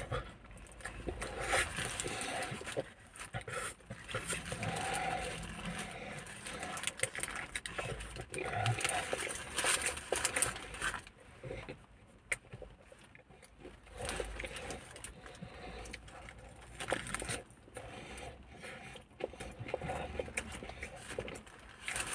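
A person chewing a mouthful of breaded chicken burger close to the microphone: irregular wet mouth sounds and crunches, with a quieter stretch about halfway through.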